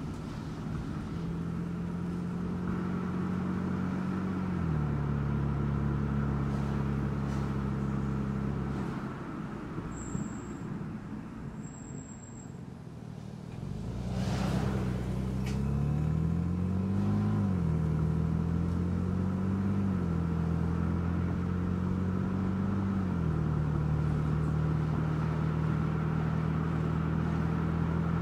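Car engine and road noise heard from the moving car, the engine's pitch dropping in steps a few times and rising and falling as it accelerates and eases off. It goes quieter for a few seconds near the middle, then a brief whoosh and the engine pulls again.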